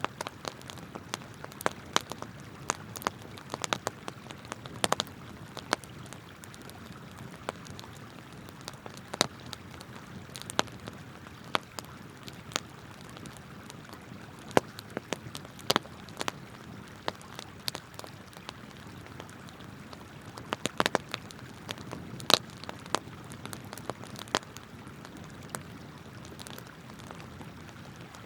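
Wood campfire crackling, with sharp, irregular pops and snaps over the steady rush of flowing river water.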